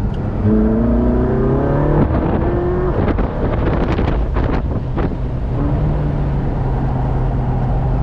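Exotic sports car's engine accelerating on a race track, its pitch rising through the revs over the first few seconds. A few short sharp noises around the middle, then the engine settles to steadier revs.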